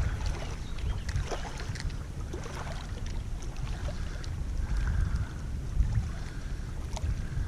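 Wind buffeting the microphone as a steady, uneven rumble, with choppy river water washing and a few small clicks.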